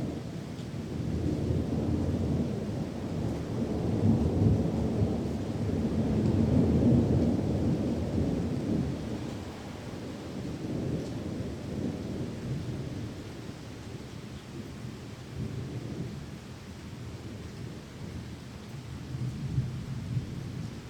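Rolling thunder over steady rain: a low rumble builds over the first few seconds, peaks, and fades to weaker rumbles by about halfway.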